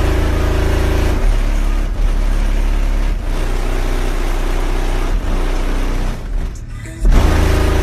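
Bass-heavy music played loud through four Resilient Sounds Platinum 18-inch subwoofers, a deep pounding low end that dips briefly near the end and then comes back in hard.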